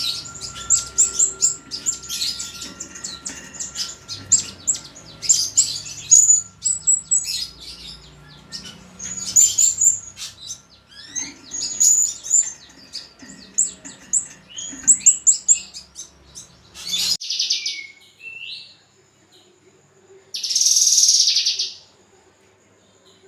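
Caged songbirds singing, with many rapid high chirps and whistles overlapping. The song cuts off abruptly about 17 seconds in, and after that come a few scattered calls and one loud, harsh burst lasting about a second.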